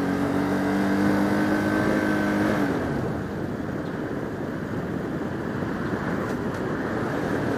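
Bajaj Pulsar RS200 motorcycle engine running at a steady speed while riding, under continuous wind and road rush on a helmet camera. The engine's tone drops away about two and a half seconds in as the throttle eases, leaving mostly wind noise.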